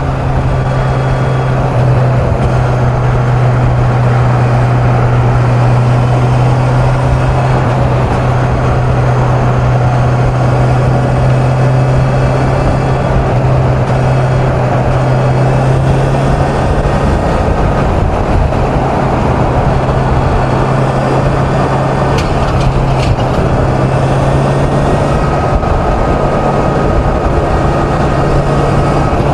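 Kawasaki Z900's inline-four engine running at a steady highway cruise, its even hum held at one pitch under a constant rush of wind and road noise.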